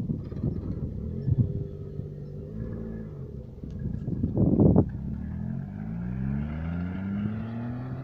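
Sports car engine accelerating, its pitch climbing steadily through the last few seconds. A loud short rush of noise comes about four and a half seconds in.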